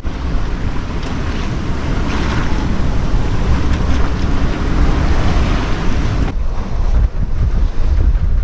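Strong wind buffeting the microphone over the rush of water and waves along a sailing yacht's hull as it beats to windward in about 20 knots. The higher hiss of the water cuts off abruptly about six seconds in, leaving mostly a low wind rumble.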